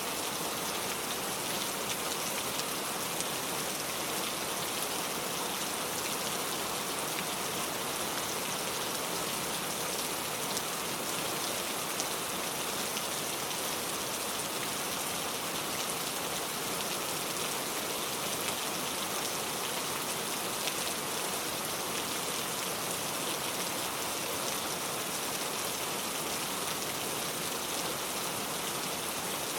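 Steady rain falling on a car, a dense even patter of drops on the body and glass.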